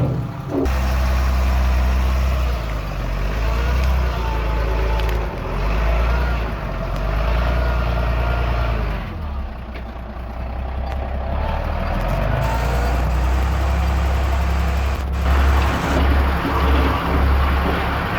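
Diesel engine of heavy earthmoving machinery running steadily with a deep drone. The sound changes abruptly about half a second in and again near fifteen seconds in.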